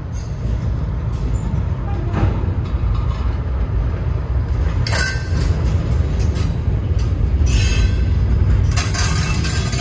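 Norfolk Southern freight train rolling past at a grade crossing: a loud, continuous low rumble, with bursts of higher-pitched rail noise about halfway through and again near the end.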